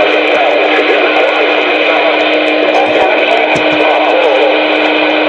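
CB radio on Channel 19 carrying a keyed-up transmission through the radio's speaker: loud steady static with a constant hum and warbling, garbled sound running through it.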